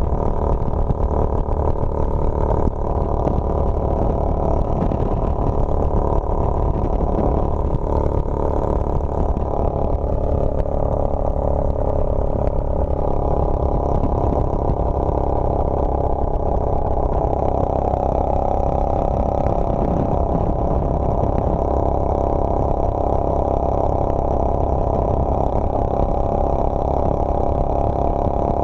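Motorcycle engine running steadily while under way, holding an even speed with no revving up or down.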